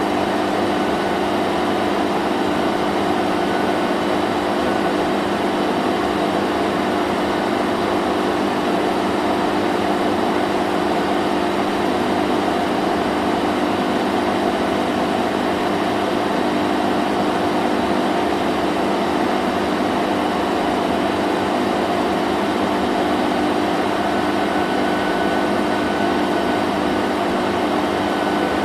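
Vacuum cleaner running steadily: a constant motor hum with a rushing of air, unchanging throughout.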